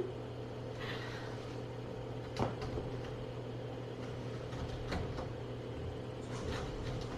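Steady room hum with a few soft clicks and knocks, the plainest about two and a half seconds in and again about five seconds in.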